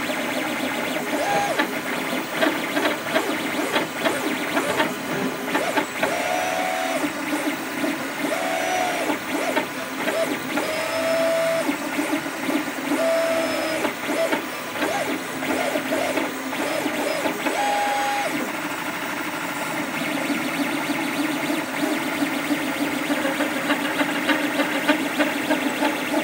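Creatr HS 3D printer running, its stepper motors whining in short steady tones whose pitch changes from move to move, over fast, busy clicking. The owner finds these noises strange.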